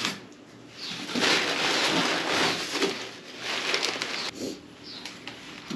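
Packaging being rustled and crinkled by hand as parts are unwrapped from their box, loudest from about a second in to about four seconds, with softer rustles after.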